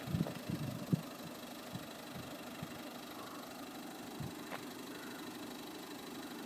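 Steady low hum of a road vehicle's engine idling, with a few low thumps in the first second.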